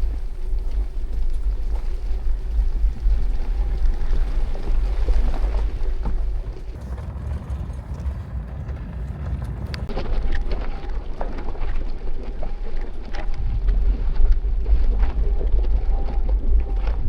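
Off-road 4x4 driving slowly over a rough dirt trail: a low, steady rumble with frequent knocks and rattles from the suspension and loose gear. It eases off for a couple of seconds in the middle.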